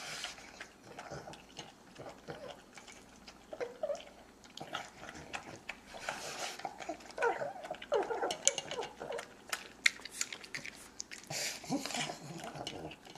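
A pet animal making a run of short, wavering squeaky calls, thickest in the middle, mixed with small clicking sounds.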